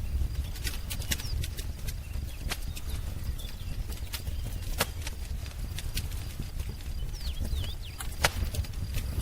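Wood fire crackling: irregular sharp pops and snaps over a low steady rumble of the flames. A bird chirps a few short notes a little past the middle.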